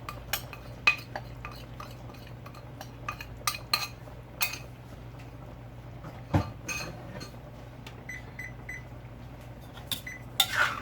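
Spoon clinking and scraping against a cooking pot and bowl in scattered sharp knocks, over a steady low hum. Three short high beeps come about eight seconds in.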